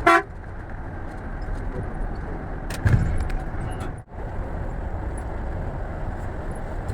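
Scania coach under way: a steady engine and road rumble. At the very start there is a short loud falling tone, and about three seconds in a loud knock.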